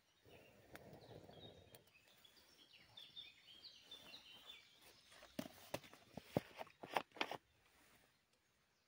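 Soft rustling steps through forest litter. A small bird sings a short run of high chirps in the middle. In the second half comes a quick series of sharp cracks, like dry twigs snapping underfoot or in the hands.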